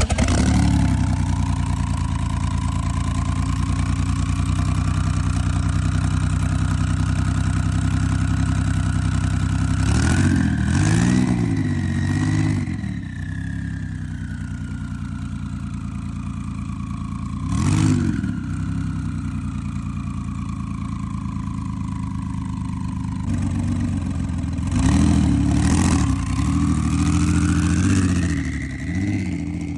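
Twin-turbo Porsche 911 GT3 RS flat-six, built to about 1800 hp, running at its first start-up, idling between short blips of the throttle about ten seconds in, again around eighteen seconds, and several more near the end. A thin high whine above the engine slowly rises, falls and rises again.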